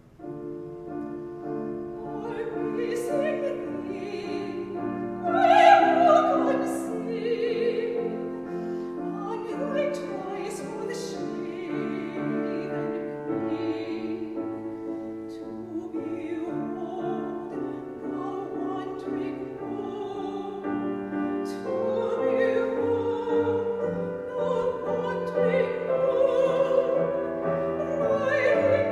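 Classical soprano singing a Baroque aria with vibrato, accompanied by piano and concert flute.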